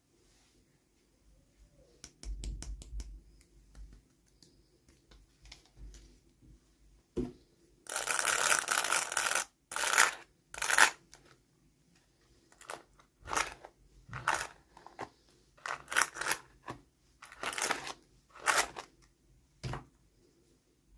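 Toy packaging being opened by hand: a few light clicks about two seconds in, then a long tearing rustle about eight seconds in, followed by a series of short rustles and scrapes.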